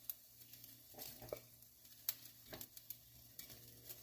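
Butter sizzling faintly in a pot, with a few sharp clicks and scrapes of a utensil against the pot and bowl as diced chicken is scooped out.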